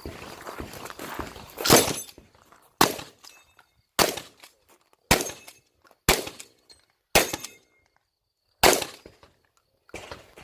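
Shotgun fired seven times during an IPSC stage, roughly one shot a second, with a longer pause before the last shot.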